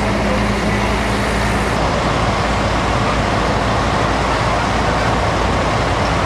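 A large vehicle engine, likely a fire truck's diesel, runs under a loud, steady rushing noise. The engine's low hum drops away about two seconds in, leaving the rushing.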